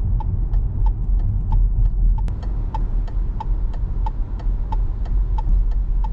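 Inside a moving Subaru Legacy B4, the indicator is clicking steadily at about three ticks a second over a constant low rumble of engine and road noise.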